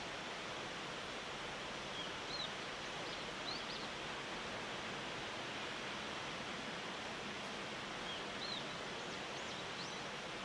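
Steady outdoor background hiss with a few short, high bird chirps, each a quick upward-hooked note, coming in small clusters a couple of seconds in and again near the end.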